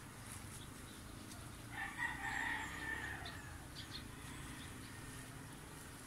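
A single drawn-out bird call about two seconds in, lasting about a second.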